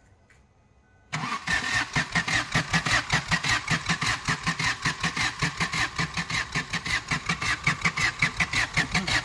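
Common-rail turbodiesel car engine turning over on its starter motor from about a second in. It makes an even, rapid chugging of about seven beats a second that stays steady and does not pick up speed.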